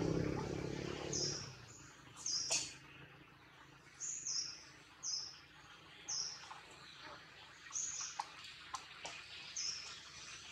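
A small bird calling over and over in the tree canopy: short, high, slightly falling chirps about once a second. A low rumble fills the first second or so.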